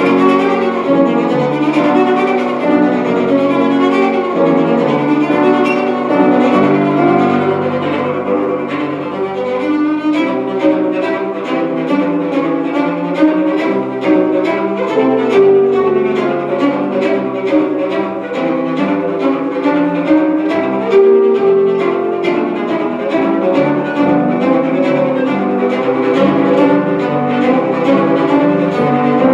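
Live classical music on bowed string instruments, a cello to the fore, played as a dense run of quickly changing notes.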